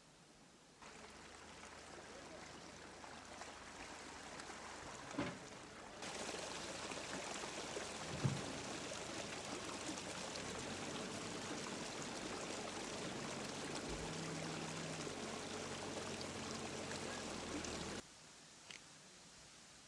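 Rushing floodwater: a steady rush that starts about a second in, gets louder about six seconds in and stops abruptly near the end. Two brief knocks stand out along the way.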